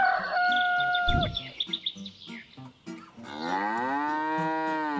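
A cow mooing once, about three seconds in: one long call that rises and then holds. A shorter, higher held call sounds near the start, and light background music plays underneath.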